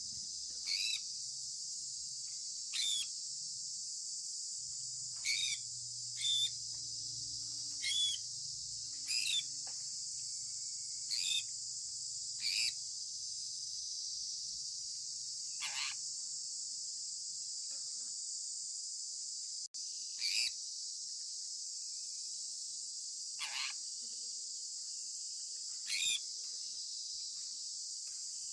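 Sun conure parrot giving short, sharp chirps about every one to three seconds, over a steady high-pitched background drone.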